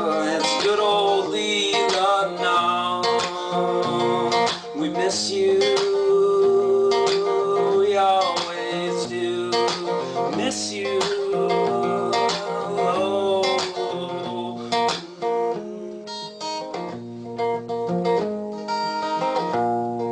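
Acoustic guitar music, an instrumental passage of a folk-country song with strummed and plucked notes.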